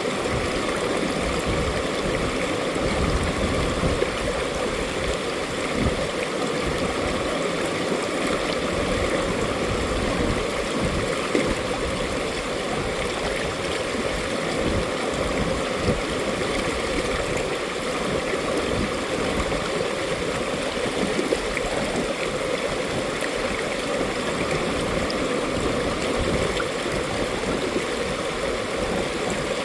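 Mountain valley stream: water rushing and babbling steadily over rocks.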